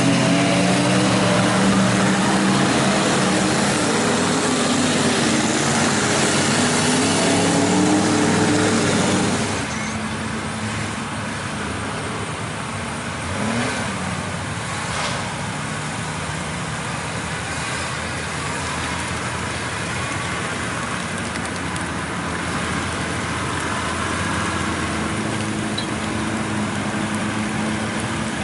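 Mud truck engine revving hard, its pitch rising and falling, for about the first nine seconds, then dropping suddenly to a quieter steady run with one brief rev a few seconds later.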